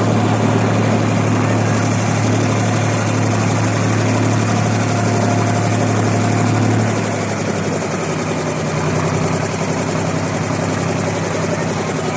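Abra water taxi's diesel engine running with a steady low hum. About seven seconds in, the engine note shifts and gets slightly quieter.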